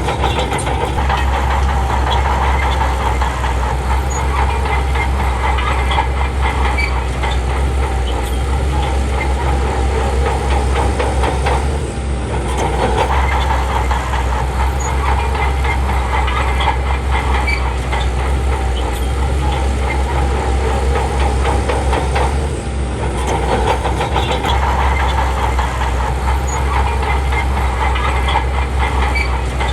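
Heavy diesel engine of earth-moving machinery running continuously with a deep low rumble, with two brief dips about twelve and twenty-three seconds in.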